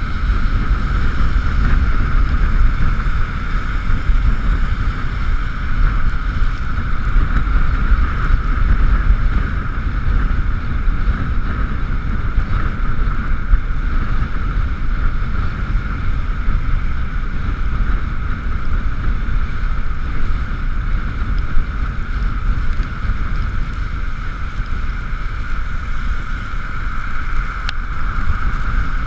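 Riding noise from an Ekoway ML5000 electric vehicle in the rain: heavy wind buffeting on the camera microphone with road rumble, over a steady high whine.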